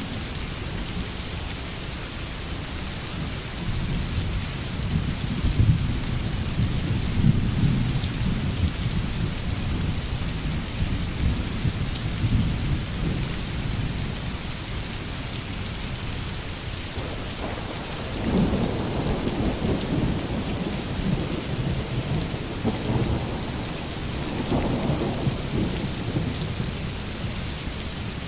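Steady rain with distant thunder: rumbles swell from about four seconds in and again from about eighteen seconds in.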